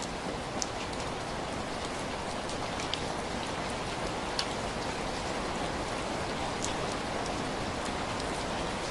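Steady, even rain, with scattered sharp ticks about once a second.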